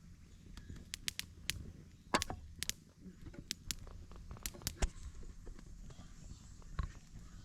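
Wood fire crackling: irregular sharp pops and snaps, a dozen or so in a flurry over the first few seconds, over a low background rumble.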